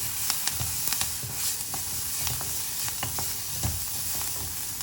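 Chopped onion with mustard seeds, dals and curry leaves sizzling in hot oil in a kadai while being stirred. A steady hiss runs under scattered sharp clicks and knocks of the stirring against the pan.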